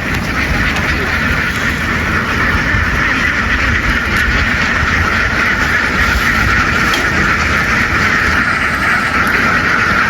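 Continuous, dense quacking of a large mass of ducks packed together, with a low steady rumble beneath.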